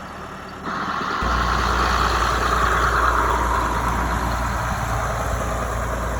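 Tractor engine running steadily, coming in abruptly under a second in, with a steady low hum.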